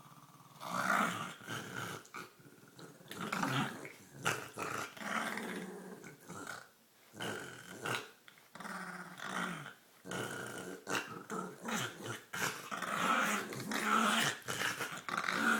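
A dog growling, snorting and gurgling in play over a toy, in irregular bursts of a second or so with short pauses between.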